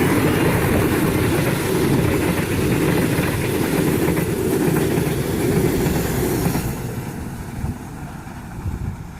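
Joglosemarkerto passenger train passing at speed, its wheels running on the rails in a steady loud rush; the noise fades from about seven seconds in.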